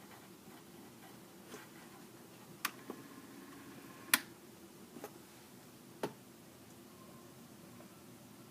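Six or so sharp, light clicks and taps at irregular intervals over a faint steady hum; the loudest click comes about four seconds in.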